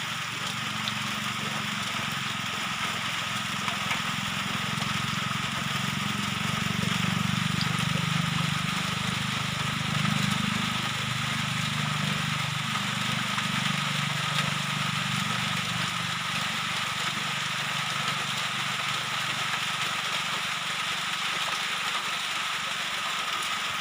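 Steady rain hissing, with a low hum underneath that swells in the middle and eases off later.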